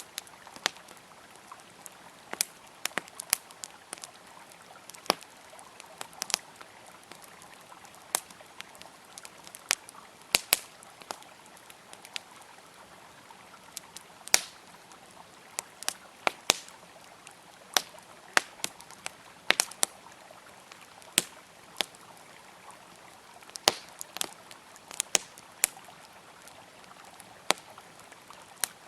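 Wood campfire crackling, with irregular sharp pops and snaps, a few of them loud, over the steady rush of a flowing river.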